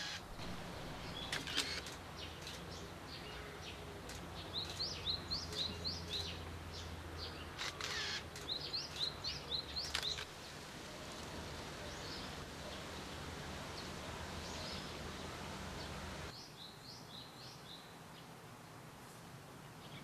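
Small birds chirping in quick runs of short rising notes, over a steady low hum that cuts off about two-thirds of the way through.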